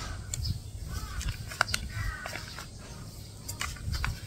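Birds calling in the background, a few short calls, with several sharp clicks from close handling over a low steady rumble.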